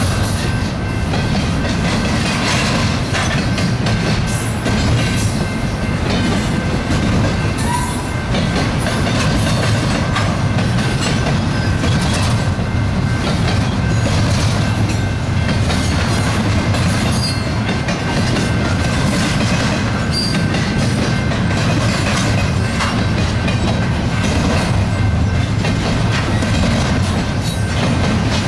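BNSF double-stack intermodal freight train rolling past: a steady rumble of steel wheels on the rails, with irregular clicks and clacks as the well cars go by.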